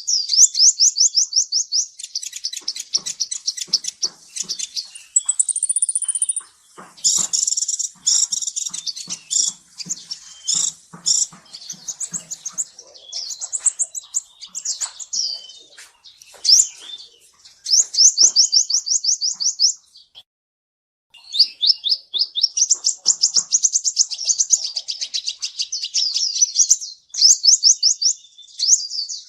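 Sunbird (the 'kolibri ninja' of Indonesian bird keepers) singing in fast, high, sweeping trills of rapidly repeated notes. The phrases come in runs of a few seconds with short breaks, and there is a brief pause about two-thirds of the way through.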